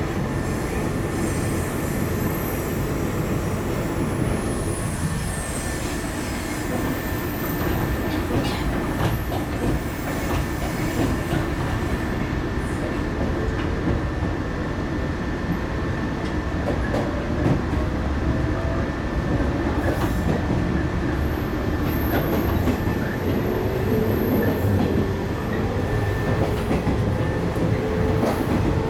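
A JR 115-series electric train heard from inside the car as it runs: a steady rumble of wheels and running gear with scattered clicks over the rails. A faint rising whine comes in near the end.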